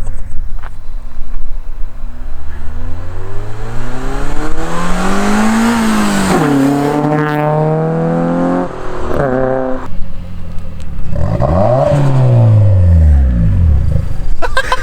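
Toyota Starlet Glanza V's engine accelerating hard, its pitch climbing and dropping back at each of several gear changes, then revs rising and falling again near the end.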